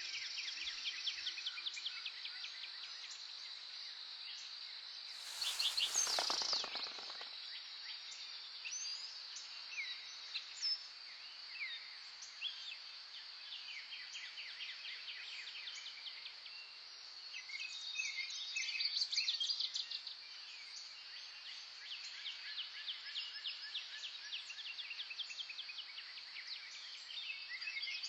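Natural birdsong ambience: several small birds chirping and trilling over a steady high-pitched hum. About five and a half seconds in, a louder rapid rattle lasts about a second and a half.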